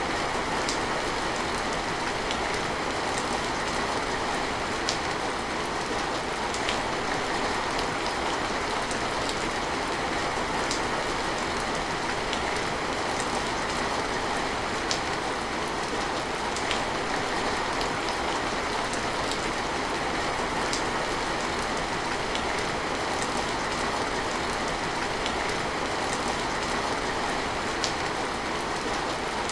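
Steady rain falling, an even hiss with scattered single drops ticking sharply every second or two.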